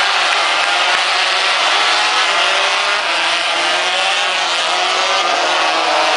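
Several racing motorcycle engines running at high revs together, a steady, loud howl whose pitches waver up and down as the bikes change speed.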